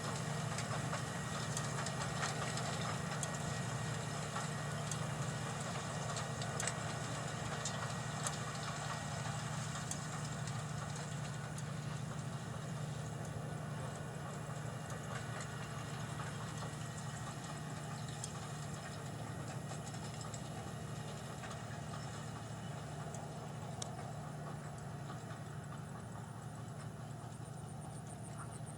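John Deere 7200R row-crop tractor's six-cylinder diesel engine running steadily, with scattered light clicks and rattles, slowly growing fainter.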